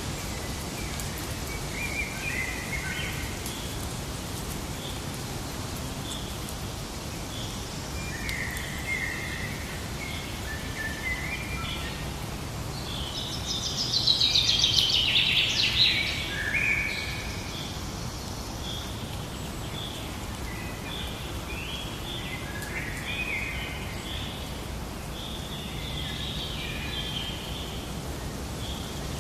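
Forest ambience: birds calling and chirping in short phrases over a steady background hiss. About halfway through, one bird sings a louder, rapid, high song for a few seconds.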